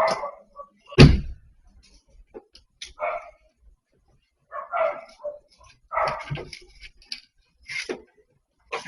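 A dog barking in short separate bursts, with a loud thump about a second in.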